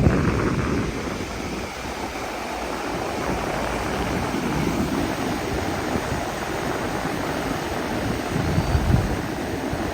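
Wind and sea waves: a steady rushing noise, with wind buffeting the microphone that swells again about nine seconds in.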